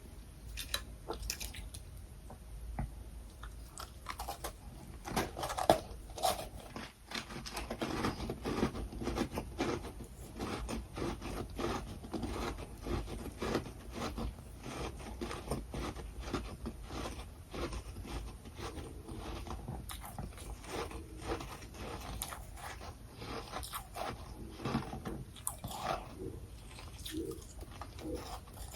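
A person biting into and chewing humidifier-grown freezer frost and crushed ice close to the microphone: a continuous run of crisp crunches, with one louder bite a little under six seconds in.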